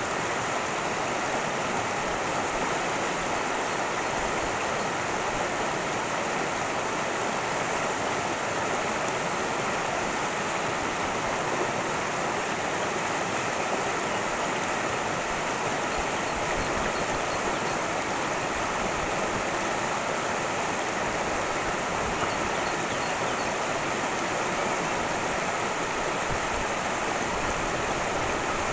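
Cascading stream: water rushing steadily with an even, unbroken sound.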